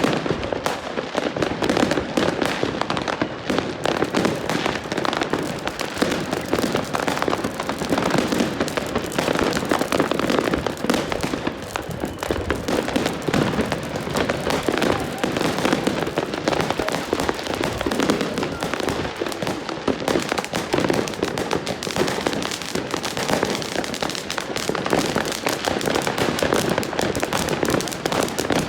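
Many fireworks and firecrackers going off at once in a continuous barrage of bangs and crackling, with no pause.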